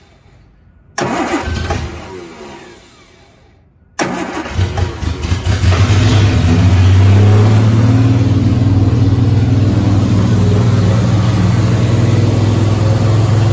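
1968 Triumph TR250's straight-six engine, running with no exhaust fitted and on choke. About a second in it fires briefly and spins down. About four seconds in it catches, picks up over a couple of seconds and settles into a loud, steady fast idle.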